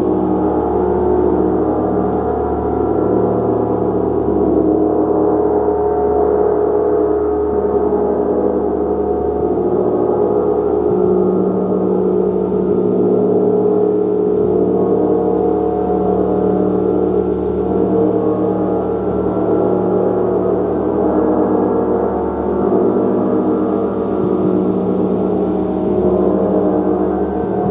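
Gong played continuously in a sound bath: a dense, steady wash of many overlapping ringing tones, with no single strike standing out.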